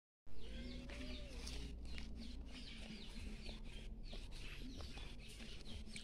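Small birds chirping in the trees: a string of short, high, down-slurred chirps, repeating two or three times a second, over a low steady hum.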